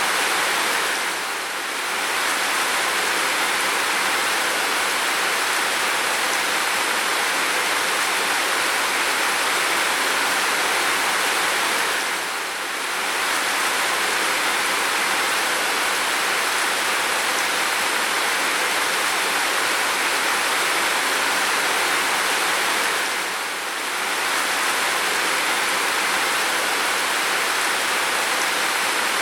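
Heavy rain falling steadily, a continuous even hiss that dips briefly in level about every eleven seconds.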